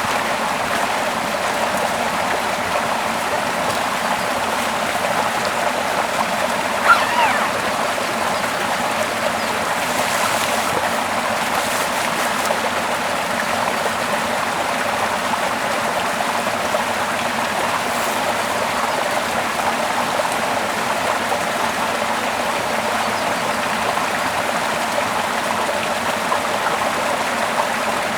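A small stream running over rocks and a small waterfall: a steady rushing and trickling of water. One brief louder sound comes about seven seconds in.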